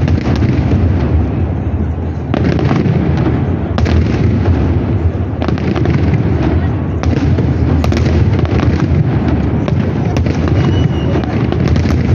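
Festive fireworks salute going off: a continuous heavy rumble of booms with many sharp crackling bangs on top.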